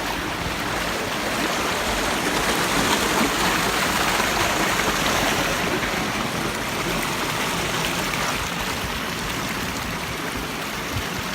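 Water of a small canyon waterfall rushing steadily over rock.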